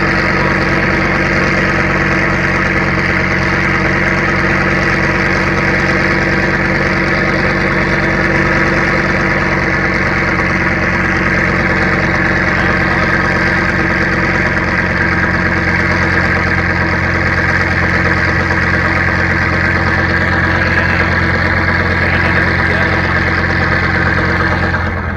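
A boat's inboard engine running steadily at a constant speed, an even drone of engine tones. The low note shifts right at the end.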